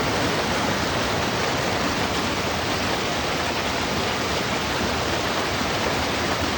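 Floodwater rushing through a drainage ditch swollen by heavy rain, a steady unbroken rush of water.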